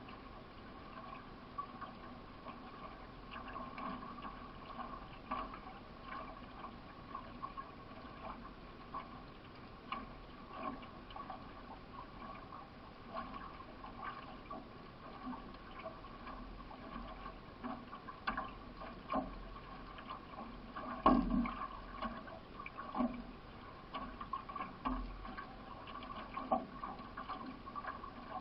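Water splashing and gurgling along a solo racing canoe as the paddler takes irregular strokes, with a steady faint hum underneath. A louder knock comes about two-thirds of the way through.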